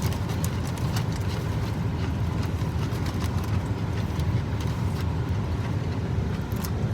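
Steady low rumble with scattered faint clicks, like the inside of a moving vehicle.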